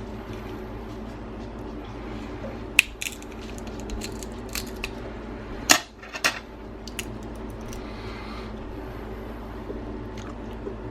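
Boiled crab shells being cracked and picked apart by hand: scattered sharp cracks and clicks, the loudest pair about six seconds in, over a steady low hum.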